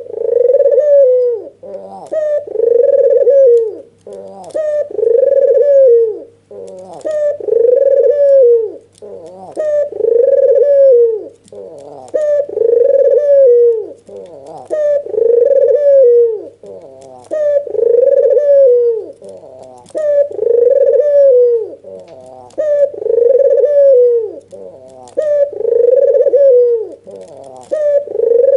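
White red-eyed puter dove (albino domestic turtle dove) cooing over and over in its agitated nodding call, one long rising-and-falling coo about every two seconds, with a faint steady low hum underneath.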